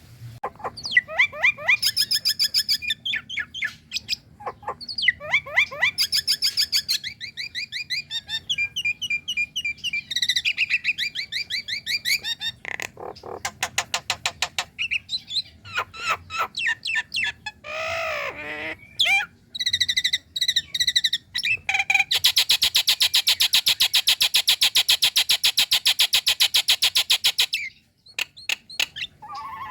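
Female Nias hill myna calling: a varied series of loud whistled notes and fast chattering trills, then a long harsh buzzing rattle lasting about five seconds that cuts off suddenly.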